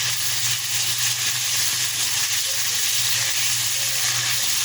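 Garlic-ginger paste frying in oil with a little water in a pan, sizzling and hissing steadily as the water cooks off, over a steady low hum.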